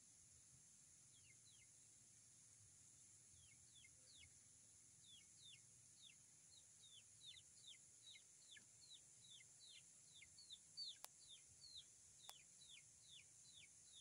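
Faint, high peeping calls from a bird, each short note falling in pitch, repeated at about two to three a second and coming more often from a few seconds in.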